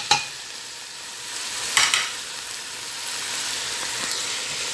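Chicken pieces frying in a stainless steel pot, a steady sizzle throughout. A sharp knock comes just after the start and a short clatter about two seconds in as the pot is stirred.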